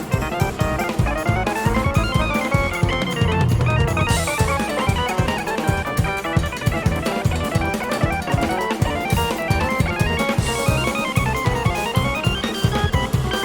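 Jazz-fusion band playing, with a busy drum kit under fast runs of melodic notes rising and falling.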